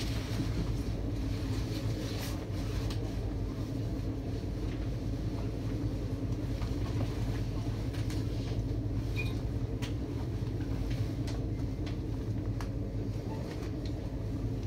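Stadler FLIRT diesel multiple unit heard from inside the carriage while under way: a steady low rumble and hum from the engines and running gear, with a few faint clicks along the way.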